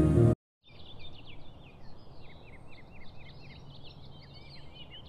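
Soft ambient music cuts off abruptly. After a brief silence, birds start chirping: a steady stream of short, quick notes that fall in pitch, over a faint background hiss.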